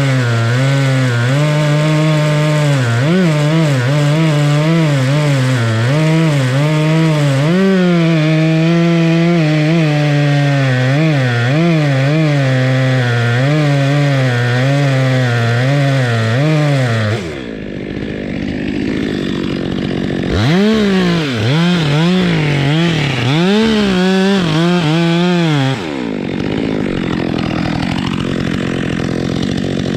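Two-stroke chainsaw running hard, its engine pitch wavering as it cuts wood. About seventeen seconds in, the pitch drops away. It then revs up and down in several swells, drops again, and picks up once more near the end.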